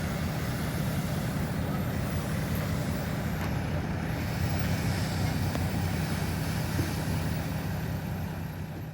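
Mercedes-Benz 2213 truck's diesel engine running steadily with a deep hum, fading away near the end.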